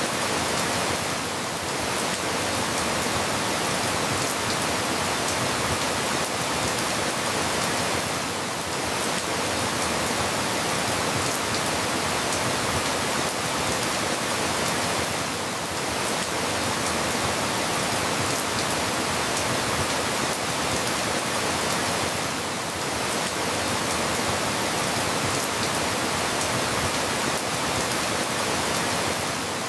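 Steady rain falling, an even hiss with a slight dip in level about every seven seconds.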